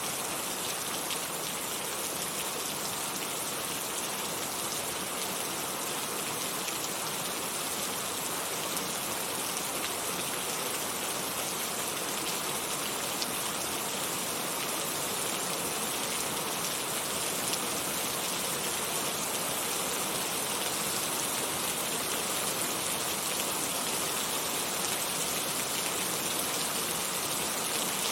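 Heavy rain falling steadily, a dense hiss of drops hitting a surface with faint individual drop ticks, its level even throughout.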